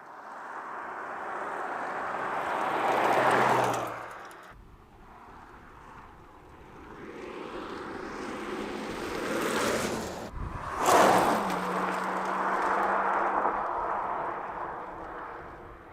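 2025 BMW M5 Touring's V8 hybrid drivetrain driving past twice, engine and tyre noise swelling and fading. The first pass peaks about three seconds in and cuts off abruptly; the second peaks about eleven seconds in, its engine note dropping in pitch as it goes by and then holding steady.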